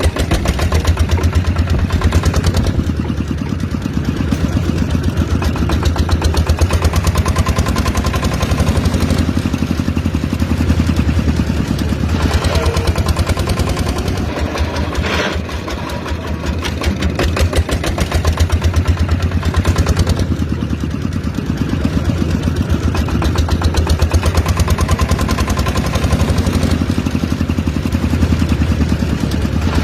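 Small engine running steadily with a fast, even chugging beat and slow swells in loudness.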